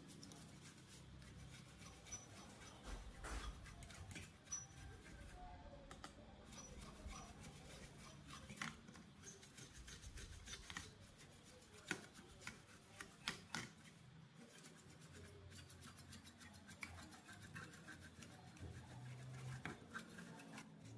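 Faint scraping and rubbing with scattered sharp clicks, the small sounds of hand work with tools.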